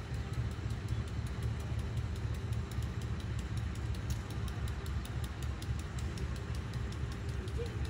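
Diesel train running with a steady low rumble and scattered light clicks.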